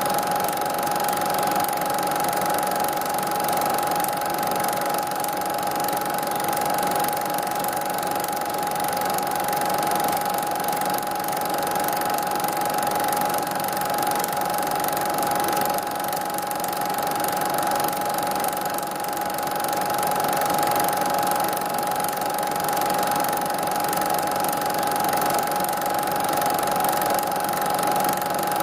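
Steady mechanical whirring and rattling with a constant high hum, unchanging throughout.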